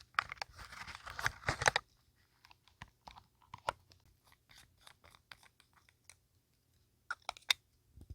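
Paper being crinkled and torn for about a second and a half, then scattered light taps and clicks, with a short burst of sharper clicks near the end.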